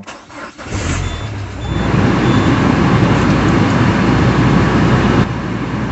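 Peugeot 406 Coupé engine cranked by the starter for under a second, catching and running, rising to a louder fast idle about two seconds in, then settling to a lower idle near the end. It is the engine that started knocking after its timing belt was replaced; the owner describes a persistent ticking.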